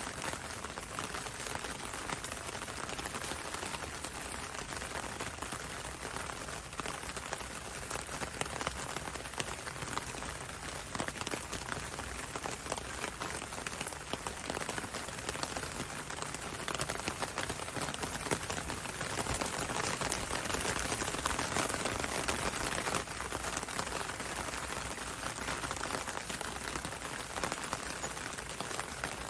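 Steady rain falling on a window and a road, a dense even patter of drops that swells a little past the middle.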